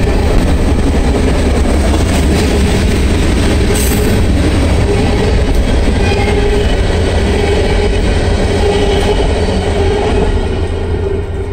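Loud rumble and clatter of freight cars, tank cars and covered hoppers, rolling past on steel wheels, with a steady wheel squeal running under it. The noise drops off near the end as the last car goes by.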